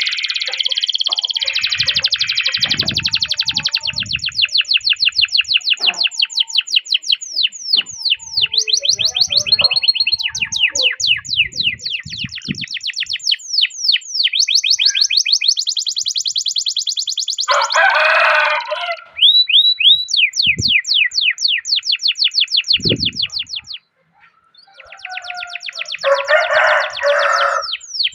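Domestic canary singing long rolling trills of fast, evenly repeated down-slurred notes, broken by a couple of harsher buzzing phrases and one short pause about three-quarters of the way through.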